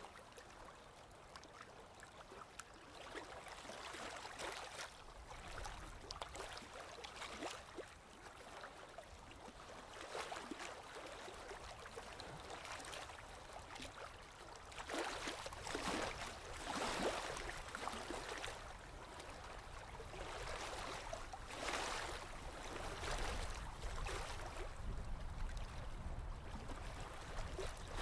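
Sea water washing and splashing, with small waves lapping and swirling close by in irregular swells that grow louder from about halfway through.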